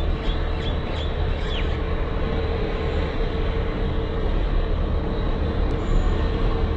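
Train locomotive running as it approaches: a steady rumble with a low, constant hum. A few short bird chirps in the first second and a half.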